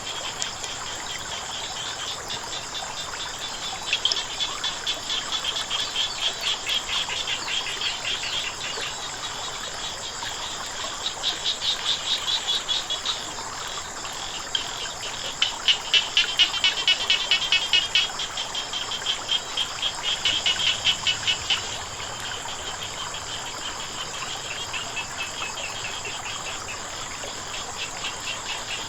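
Frogs croaking in bouts of fast, evenly repeated pulses, each bout lasting a few seconds, with the loudest bouts around the middle. A steady high insect trill runs underneath.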